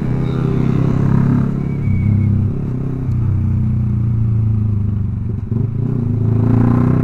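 Yamaha R15 V3's single-cylinder engine through an aftermarket Proliner exhaust, ridden at full throttle. The engine pitch rises near the start and again near the end, with a brief dip a little past five seconds.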